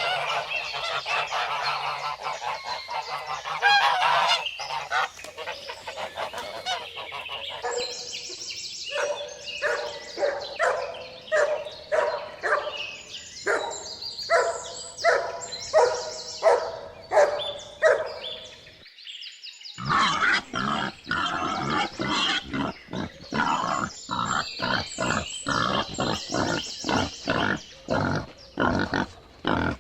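Domestic waterfowl honking and calling in a long string of short repeated calls. After a sudden break of about a second, two-thirds of the way through, a pig grunts in quick repeated grunts.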